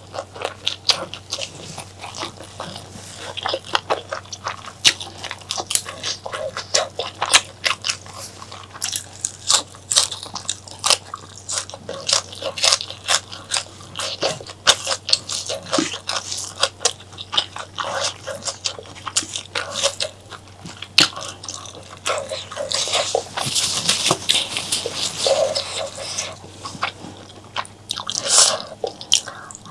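Close-miked chewing and biting of spicy mutton curry with mutton tripe: a dense run of wet, crunchy clicks and smacks, with a thicker stretch of wet mouth sounds about three quarters of the way through.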